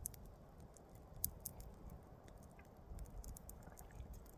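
Faint low rumble of wind with scattered small ticks and crackles throughout.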